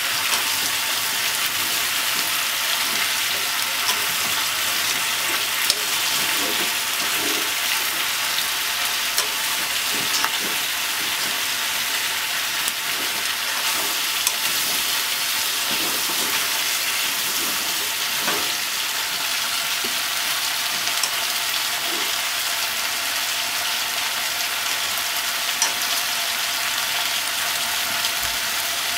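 Pork, potatoes, onion and carrot sizzling as they are stir-fried in a pot, turned over with chopsticks. A few sharp clicks, about half a dozen, from the chopsticks knocking the pot.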